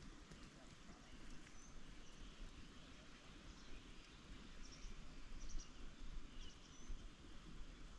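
Faint outdoor ambience with a low rumble and a few short, high bird chirps scattered through it.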